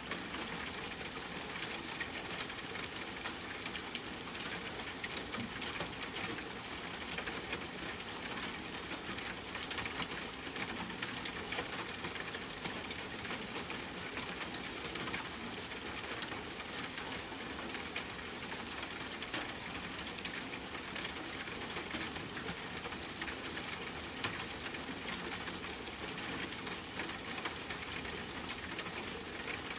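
Steady rain falling, with a dense patter of small drop ticks at an even level throughout.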